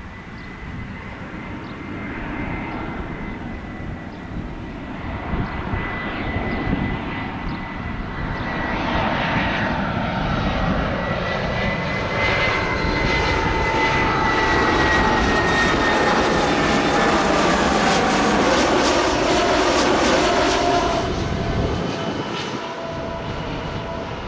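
Airbus A319 jet airliner's CFM56 turbofan engines on low final approach, passing close overhead: an engine whine with high steady tones that grows louder, peaks past the middle, then fades near the end, its tones sliding down in pitch as it goes by.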